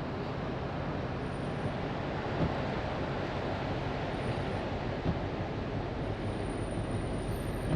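Steady road and engine noise inside a moving car, with a couple of light knocks.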